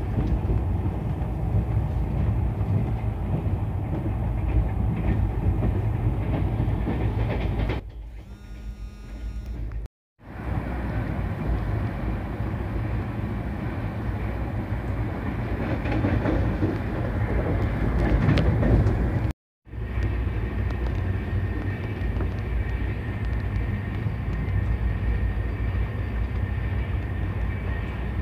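Passenger train coach running at speed, heard from inside an AC 2-tier LHB coach: a steady rumble of wheels on rail with clickety-clack. It drops to a quieter stretch with a faint high-pitched whine about eight seconds in, grows louder a little before the middle, and breaks off abruptly twice.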